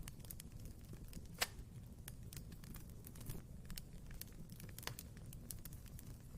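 Wood fire in a fireplace crackling: frequent irregular sharp pops and snaps over a low steady rumble of the flames, with one louder pop about a second and a half in.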